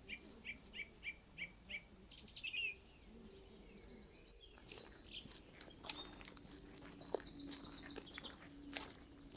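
Forest songbirds singing: a series of six short, evenly repeated notes followed by a brief trill, then, about halfway through, a busier stretch of overlapping high trills with scattered clicks and a faint steady hum beneath.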